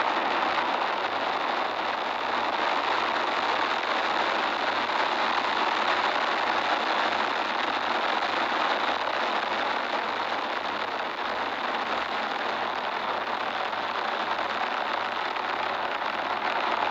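Falcon 9 first stage's nine Merlin 1D engines firing during ascent, heard as a steady, even rocket exhaust noise.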